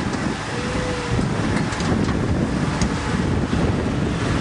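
Wind buffeting the microphone over the low, steady running of an off-road vehicle crawling over rocks.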